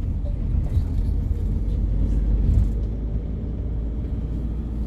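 Tour coach engine and road noise heard from inside the bus while driving: a steady low rumble.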